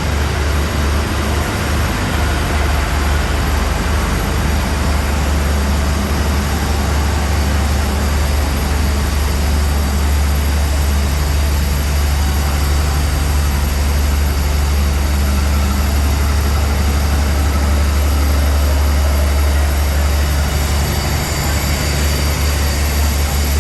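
A heavy engine idling steadily: a deep, even hum under a constant haze of noise.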